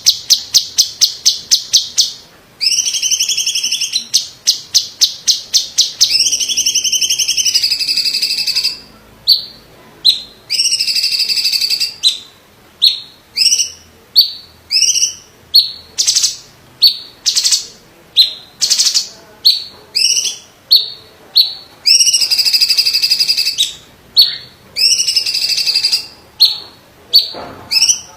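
A cucak cungkok, a green leafbird (cucak ijo) type, singing loudly. It opens with a fast run of repeated notes at about eight a second, then alternates warbling two-tone phrases with series of sharp, clipped notes.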